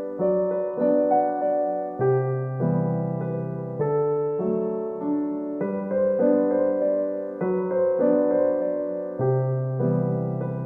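Soft background piano music: gentle chords and a slow melody, with a new note or chord roughly every second.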